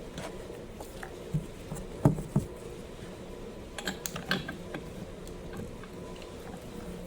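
Hand tools and small metal parts being handled on a workbench: a few sharp knocks about two seconds in and a cluster of lighter clicks around four seconds in, over a steady low hum.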